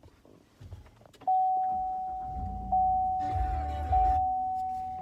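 Cadillac Escalade's dashboard warning chime, one steady tone struck again about every second and a bit, starting about a second in. Under it there is a low rumble with a short burst of noise around the middle, as the ignition comes on.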